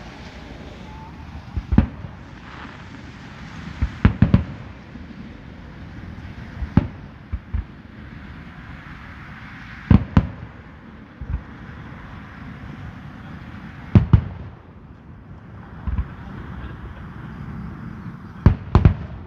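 Aerial fireworks bursting: about ten sharp bangs at uneven intervals, some in quick pairs, each followed by a low rumble.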